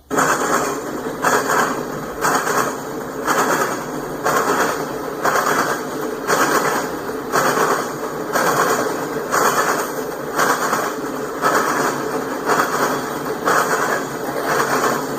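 Loaded hopper cars of a freight train rolling past, the wheels clacking over rail joints in a steady repeating rhythm of roughly one clack a second.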